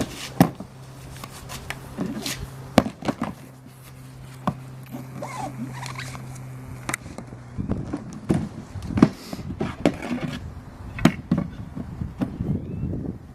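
Irregular knocks, clicks and clunks of a Porta-Bote folding polypropylene boat and its parts being handled and assembled. A steady low hum runs under the first half, and the handling gets busier after about seven and a half seconds.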